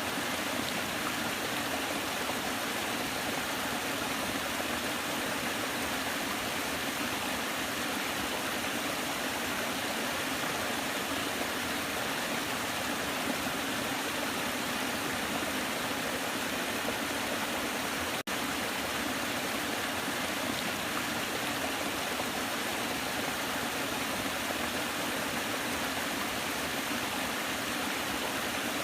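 Waterfall water rushing steadily in an even, unchanging wash of noise, broken only by a split-second dropout about two thirds of the way through.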